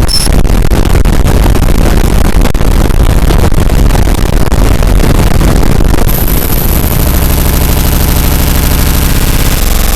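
Harsh noise music: loud, dense, distorted crackling noise across the whole range. About six seconds in a high steady whine joins it, and a second later the low end turns into a fast, even stuttering pulse.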